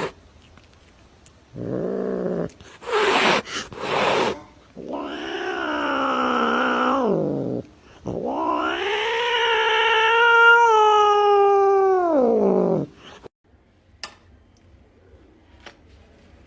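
A cat yowling (caterwauling): a short call, two brief breathy bursts, then two long drawn-out yowls, the last rising and held for about four seconds before it stops.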